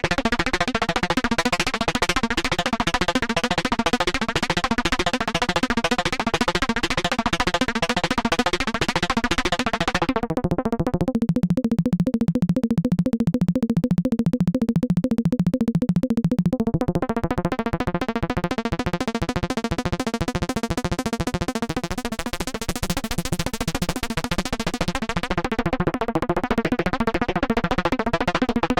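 K-Accumulator synthesizer module in its FBPM mode, playing a very fast melody of rapid notes. About ten seconds in the tone turns dull, losing its bright upper range, and it brightens again some six seconds later.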